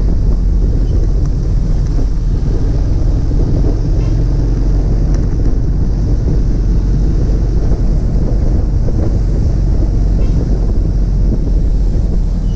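Steady low rumble of a car driving on the road, road and wind noise with wind buffeting the microphone.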